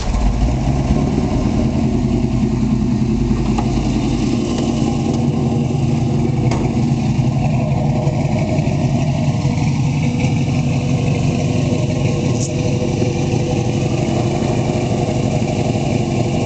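1968 Ford Mustang Fastback's engine running just after a key start: a heavier low rumble for the first few seconds as it fires up, then it settles into a steady idle.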